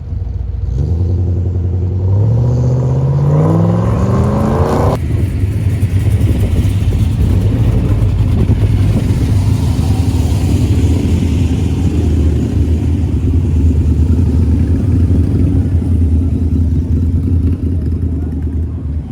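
A car engine accelerates, its pitch rising steadily for about four seconds before cutting off abruptly, then settling into a steady loud low rumble.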